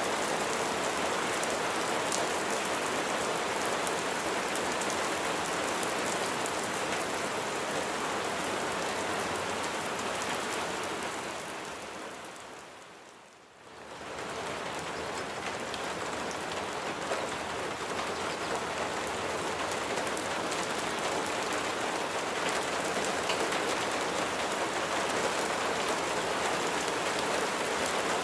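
Steady rainfall with a fine patter of drops. About halfway through it fades away to a brief quiet and swells back to full strength within a second or so.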